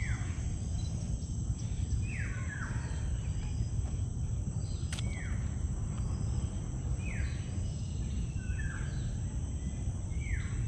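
A bird calling over and over, each call a short note falling in pitch, roughly every one to two seconds, over a steady high drone of insects and a low rumble. A single click about halfway through.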